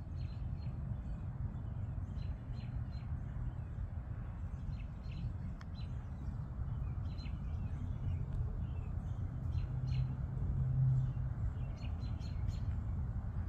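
Small birds chirping in short, repeated high notes over a steady low rumble that swells a little about ten seconds in.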